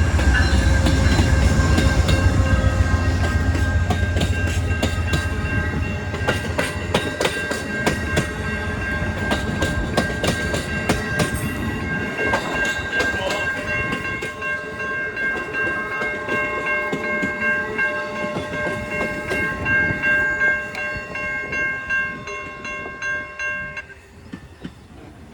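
Amtrak passenger train passing at a level crossing: a heavy low rumble as the locomotive goes by at first, then a long run of rapid wheel clacks over the rail joints and crossing as the cars pass. Several steady ringing tones sound throughout and stop about a second before the end.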